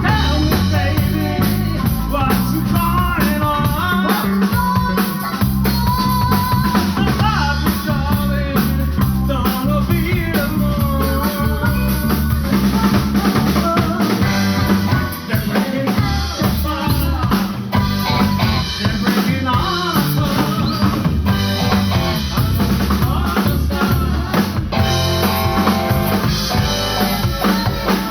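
Live rock band playing an instrumental passage: a drum kit with rimshots on the snare, a bass line, and a lead instrument playing a bending melody over them.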